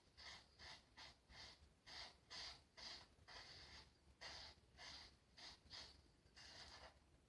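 Faint, short scraping strokes of a vintage Faynett Lather Catcher safety razor cutting lathered stubble, about two strokes a second.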